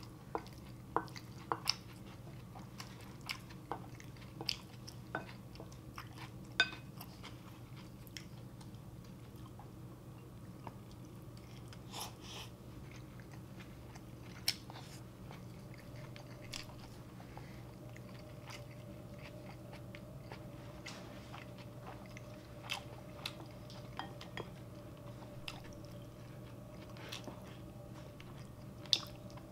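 Close-miked chewing and small wet mouth clicks of a person eating spoonfuls of gyudon, soft beef and rice with egg, with a few sharper clicks scattered through.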